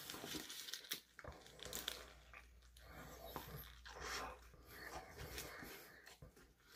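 Faint mouth sounds of biting into and chewing a grilled shawarma wrap, with light crinkling of its paper wrapper, as a string of small soft crunches and clicks.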